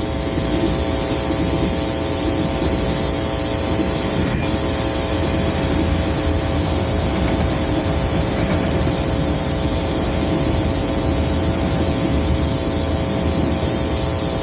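CSX freight train's autorack cars rolling past, a steady rumble of steel wheels on rail with a held tone above it.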